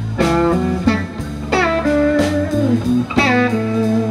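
Blues band playing: an electric guitar lead fill with bent notes, over a steady bass line and drums, between sung lines.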